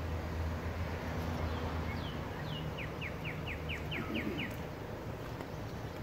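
A songbird sings a quick run of about eight short descending chirps midway through, over a low steady background hum.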